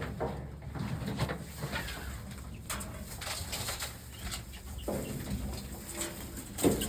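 Chickens clucking in a coop amid scattered rustling and scuffing sounds, with a louder call or knock near the end.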